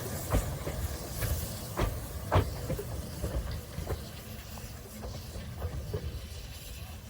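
Steam locomotive hissing faintly at a station platform over a low rumble, with a few sharp knocks and clanks, the loudest about two and a half seconds in.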